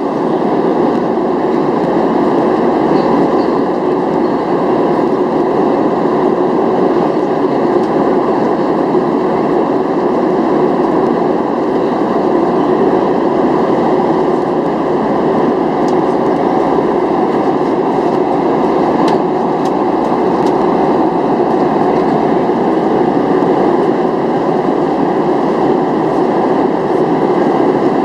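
Steady cabin roar inside a Boeing 737-700 in flight: jet engine and airflow noise, with a few faint clicks around the middle.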